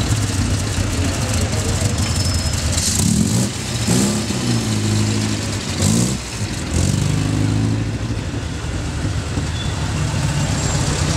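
Classic Alfa Romeo coupés' engines running at low revs as the cars roll slowly past one after another, with short rises and falls in engine pitch around four and six seconds in.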